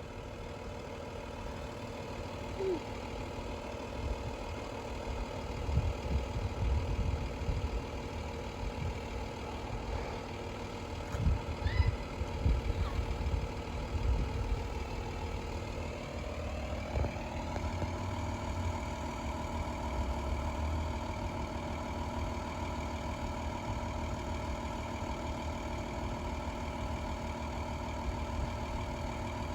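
Engine idling with a steady hum, its note shifting and growing stronger about 17 seconds in, with uneven low rumbling in the first half.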